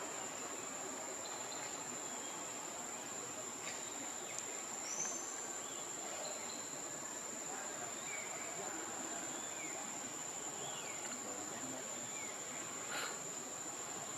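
Steady high-pitched insect trill over a background hiss, with a few faint short chirps and two brief clicks.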